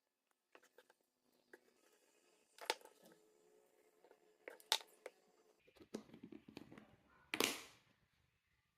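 Faint handling noises: scattered small clicks and knocks, with sharper knocks about three and five seconds in and a longer scraping knock near the end.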